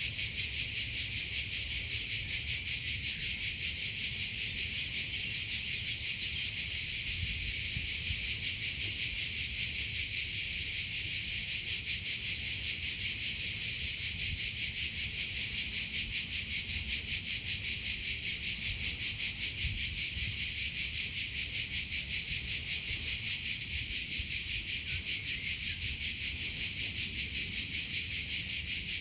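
Crickets chirping in a steady, evenly pulsed high-pitched trill that never lets up.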